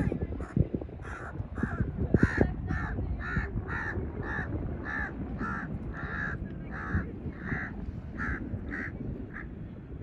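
A bird calling in a long series of short, evenly spaced calls, about two a second, over a low rumble of wind noise.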